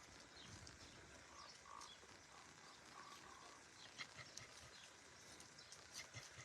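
Near silence: faint outdoor background with a few light ticks and taps and faint brief high sounds.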